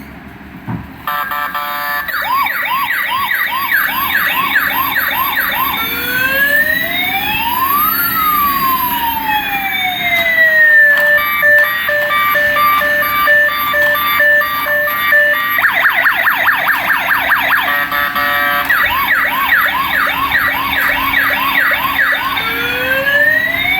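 Toy police car's electronic siren cycling through its patterns. It opens with a fast yelp, moves to slow rising-and-falling wails, then a steady two-tone hi-lo, then a rapid warble, then the fast yelp again.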